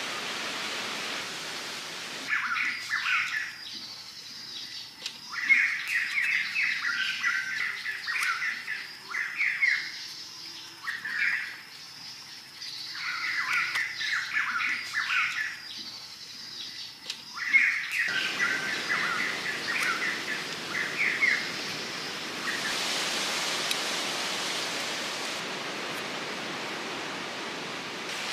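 Birds chirping in repeated bursts of rapid short notes, a pause of a second or two between bursts, over a steady hiss of outdoor background noise. The chirping stops a few seconds before the end, leaving only the hiss.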